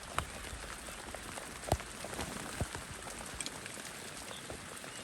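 Steady rain falling, with a couple of louder, close raindrop taps, one just after the start and one a little before the two-second mark.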